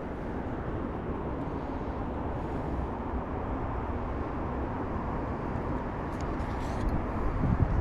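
Steady outdoor rushing noise with a low rumble, swelling briefly into a few low thumps near the end.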